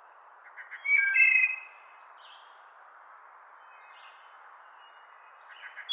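Songbird singing: a short, bright phrase of a few quick notes and clear whistles about a second in, faint calls in between, and another phrase starting near the end, over a steady soft hiss.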